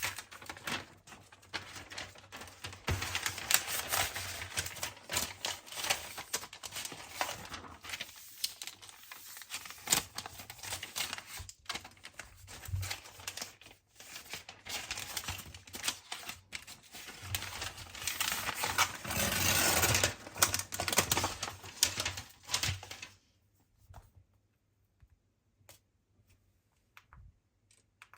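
Close-up hand handling of an iPad Air's packaging: a quick run of light clicks, taps and rustling of card and plastic. The rustling is densest about 19 to 22 seconds in and stops about 23 seconds in.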